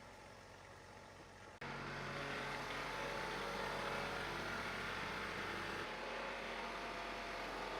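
An engine running steadily, jumping louder at an abrupt cut about one and a half seconds in.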